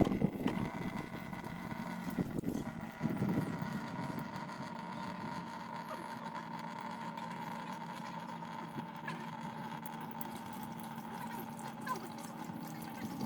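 Steady mechanical hum, like a motor running, with a few knocks and rustles in the first few seconds.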